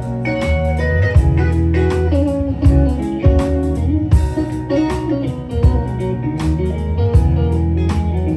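A live band playing a song: guitar and bass over a steady drum beat, without vocals here.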